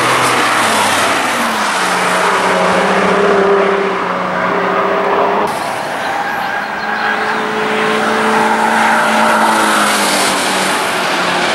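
Sports cars driven at speed on a race circuit. First a Porsche 911's flat-six, its engine note falling slightly and then holding steady. After an abrupt cut about halfway through, a Renault Clio RS's four-cylinder engine runs past with a steady note.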